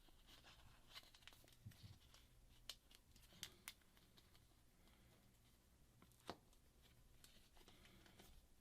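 Near silence, with a few faint scattered clicks and light crinkling from hands working a phone's adhesive tape.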